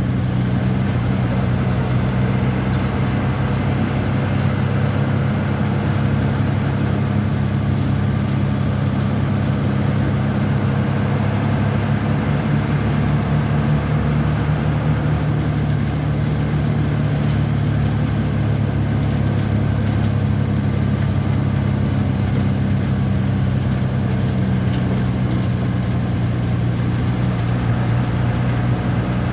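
Hino AK1J diesel engine idling steadily, a low even hum with no change in speed.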